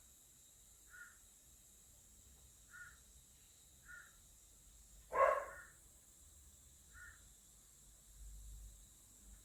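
Animal calls: short, faint chirps every second or two, with one louder, harsher call about five seconds in.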